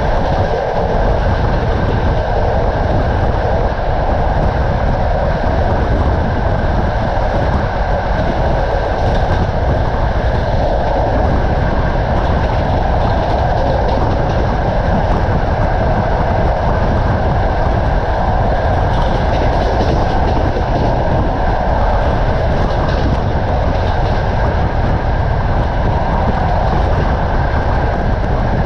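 Steady running noise of a moving passenger train carriage, its wheels rolling on the rails at speed.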